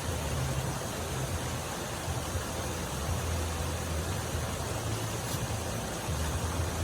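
Steady low rumble under an even hiss, the running noise of a motor vehicle.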